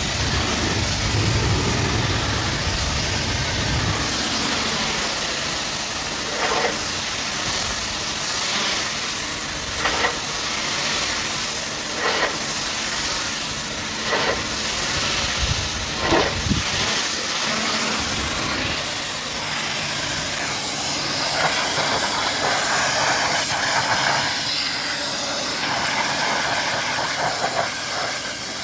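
High-pressure washer jet spraying water onto a truck, a steady hiss with short louder bursts every two seconds or so.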